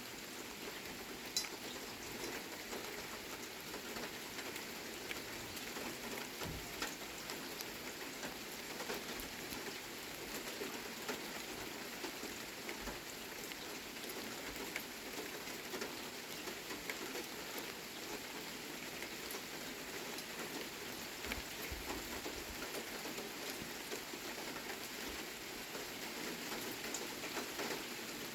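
Steady rain falling, with many individual drops ticking throughout.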